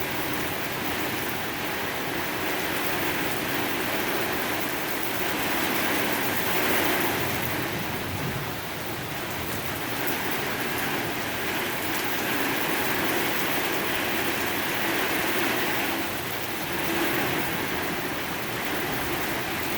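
Heavy thunderstorm rain pouring down, a steady hiss that swells and eases slightly.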